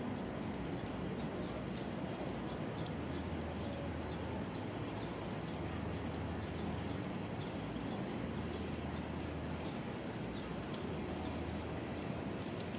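Steady rain falling, with scattered individual drops ticking. A faint low hum comes and goes through the middle.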